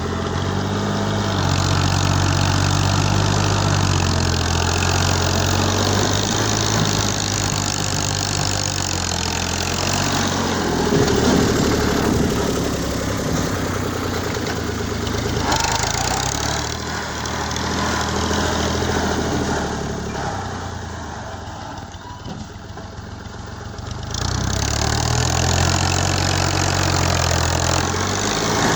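Tractor engine running steadily, dropping back for a few seconds about two-thirds of the way through, then picking up again.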